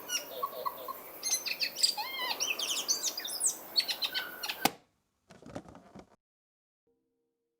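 Birds chirping and singing, many quick whistled calls overlapping, that cut off suddenly about two-thirds of the way through. A faint brief noise follows, then near silence.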